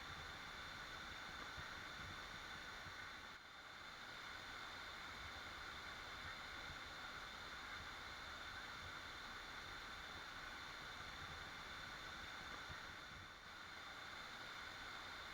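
Steady rushing of a waterfall, an even hiss of falling water without birdsong, dipping briefly twice, about three and a half seconds in and again near the end.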